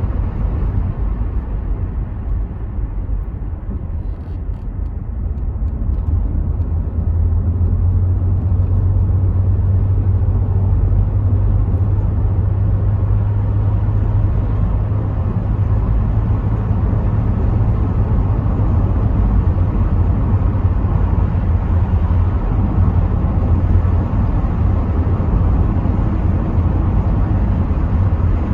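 Rover 75 V6 Tourer on the move, heard from inside the cabin: a steady low engine drone with road and wind noise, which grows louder about a quarter of the way in and then holds.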